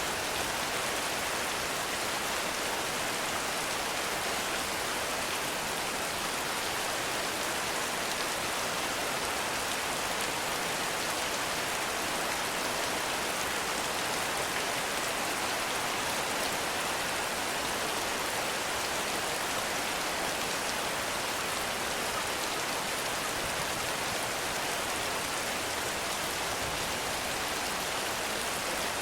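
Heavy rain falling steadily in a forest, an even rushing hiss of rain with no breaks or separate events.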